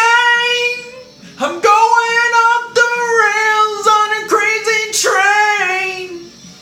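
A high voice sings long, held, wavering notes over a quiet backing track. The voice stops shortly before the end, leaving only the faint accompaniment.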